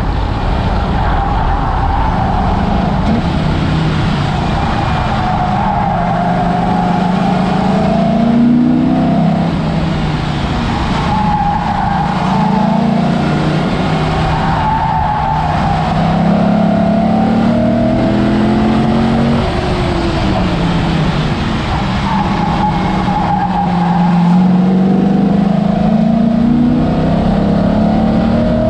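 Car engine under hard driving at speed, its pitch climbing and then dropping several times as it runs up through the revs and shifts or lifts off, over steady road and wind noise from a low-mounted camera.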